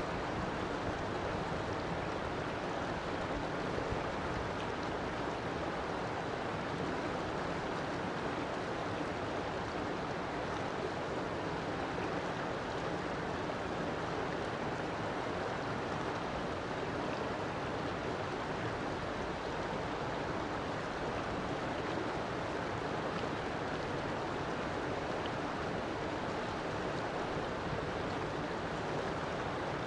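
River water flowing steadily, an even, unbroken sound of running water.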